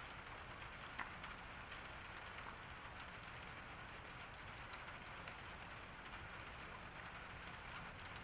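Light summer rain falling steadily on a garden, with scattered drops tapping on hard surfaces and one sharper drip about a second in.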